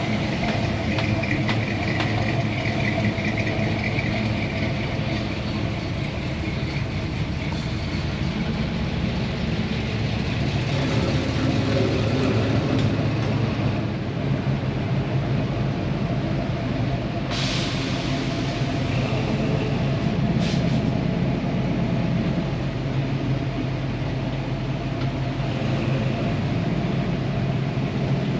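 Truck engine running steadily, with two brief hisses of air past the middle.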